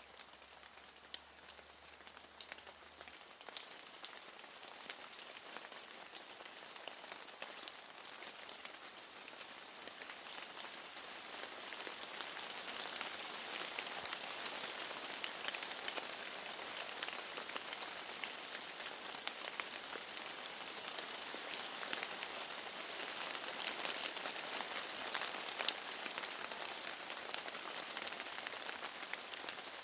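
Steady rain falling, with many individual drops ticking through the hiss. It grows heavier and louder about a third of the way in and stays so.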